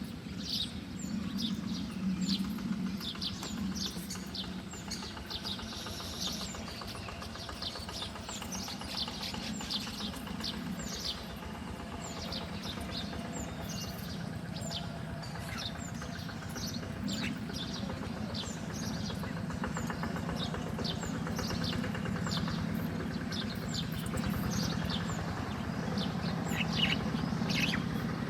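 Small birds chirping: a steady stream of short, rapid high chirps, over a steady low hum.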